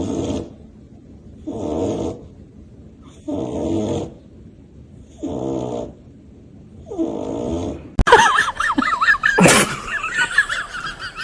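A dog snoring loudly and regularly: about five long, rumbling snores, one every two seconds. About eight seconds in the sound cuts to high, rapidly wavering whines, with a sharp knock partway through.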